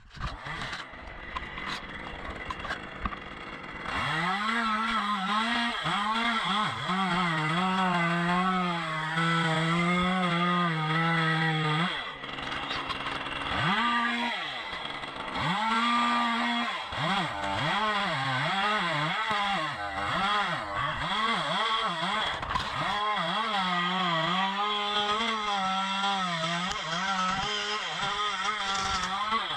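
Two-stroke chainsaw running at high revs, cutting into dead fir wood, its engine pitch wavering under load. It eases off about twelve seconds in and revs back up a few seconds later.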